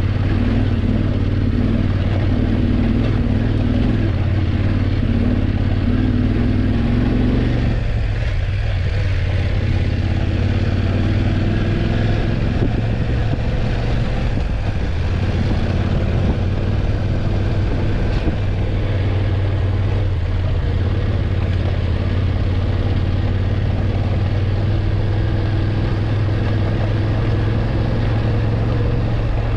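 BMW F850GS parallel-twin engine running steadily as the motorcycle rides, over wind and road noise. About seven seconds in, the engine's note changes and a higher tone in it drops away.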